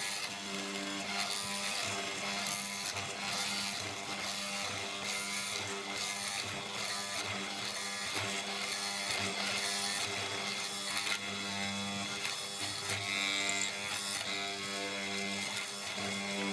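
Restored mortising machine running: a steady motor hum with rhythmic mechanical clicking.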